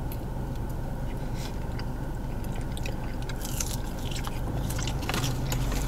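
Close-up mouth sounds of biting and chewing waffle fries dipped in sauce, with scattered small crunches and wet clicks, busiest in the second half, over a steady low hum in a car's cabin.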